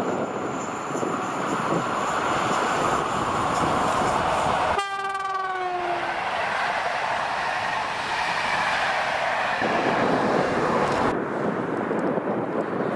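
Electric locomotive hauling passenger coaches passes close by with steady wheel-and-rail noise. About five seconds in, its horn gives one short blast that drops in pitch. The running noise falls away about eleven seconds in.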